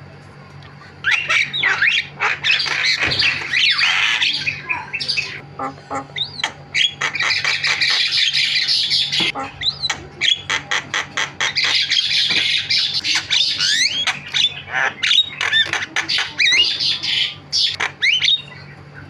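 Javan myna (jalak kebo) chattering: a dense stream of harsh squawks, rapid rattling clicks and short whistles that starts about a second in.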